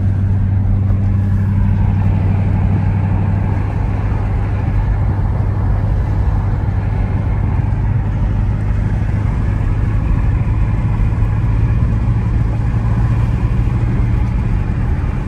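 Dodge Scat Pack's 6.4-litre HEMI V8 running at a steady, even pitch with a deep drone and no revving; the higher part of the drone eases off a few seconds in.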